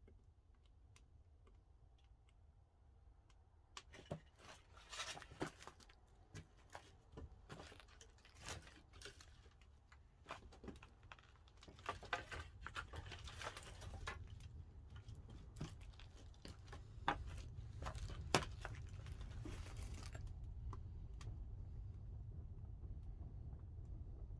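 Pine firewood crackling and popping as it burns in a wood-fired kiln. There are irregular sharp snaps, thickest in the middle, over a low rumble that grows louder about halfway through.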